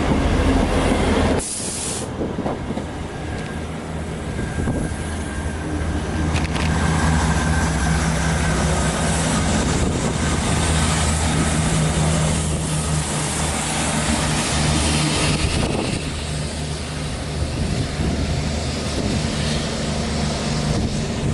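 Diesel train running at the platform: a steady low engine drone under rail and wheel noise. There is a short loud burst about a second and a half in.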